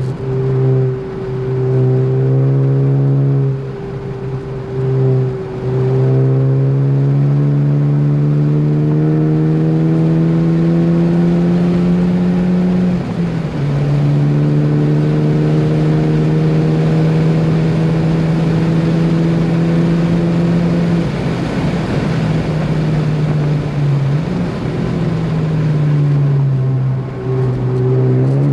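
Ford Focus ST's turbocharged four-cylinder engine pulling at full throttle, revs climbing slowly through long gear pulls. The revs drop about 13 seconds in, then climb and hold. Around 21 seconds in the engine note breaks up and falls off the throttle, then it accelerates again near the end.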